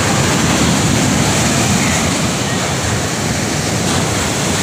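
Loud, steady rushing of rough sea water and wind around a fishing boat.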